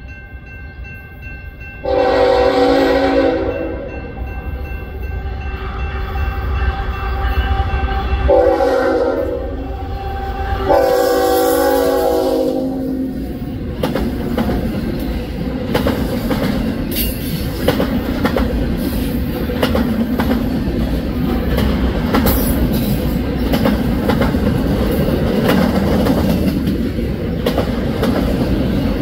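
Horn of a Canadian National GE ES44AC diesel locomotive sounding three blasts for a grade crossing: a long blast, a shorter one, then a long one. Then a long train of autorack cars rolls by with a steady rumble and repeated clicking of wheels on the rails.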